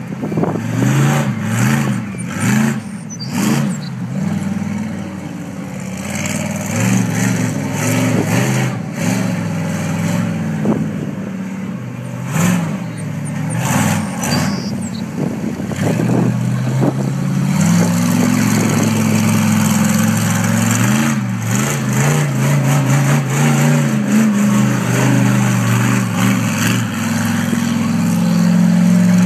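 Monster truck's large engine revving up and down, with sharp clanks and knocks in the first half; from about two-thirds of the way in the engine holds a higher, steadier, louder pitch.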